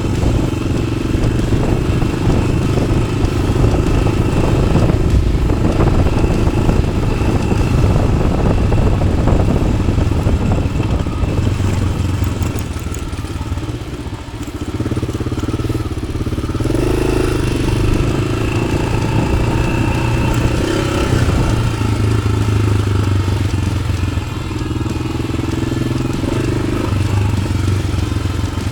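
1993 Yamaha XT600's single-cylinder four-stroke engine running while riding, through an Arrow aftermarket exhaust; the engine note eases off briefly about halfway through and then picks up again.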